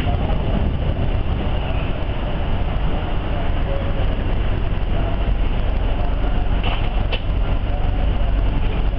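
Steady running rumble of a moving passenger train heard from inside the coach, strongest in the low end, as another train passes close alongside. Two brief clicks come about seven seconds in.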